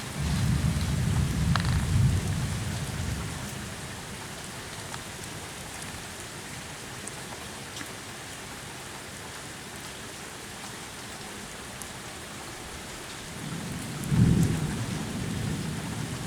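Steady rain falling during a night thunderstorm, with a low roll of thunder for the first few seconds and another shorter roll near the end.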